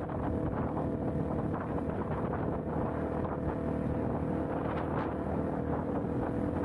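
Motorcycle engine running at a steady cruising speed, its pitch holding level, with wind rushing over the rider's microphone.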